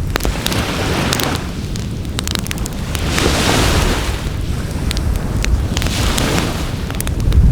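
Wood fire crackling with many sharp pops and snaps, over the rushing wash of surf on the shore that swells about three seconds in and builds to a deep rumble near the end.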